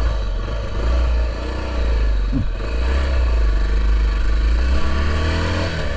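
Honda XR650L's single-cylinder four-stroke engine running under way, its note rising and falling a few times with the throttle over a deep low rumble.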